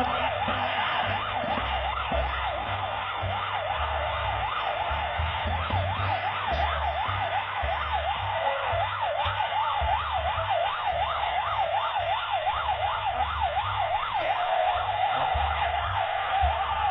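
Emergency vehicle siren wailing in a fast up-and-down sweep, about two to three cycles a second, over a low vehicle rumble.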